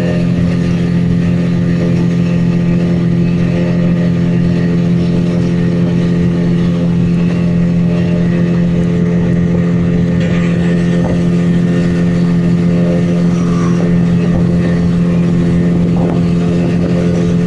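Speedboat engine running steadily at speed: a loud, even drone that holds one pitch throughout.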